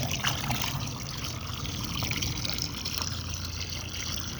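Water being poured out for ducks and chickens, a steady trickle and splash into their water, with a sharp knock right at the start.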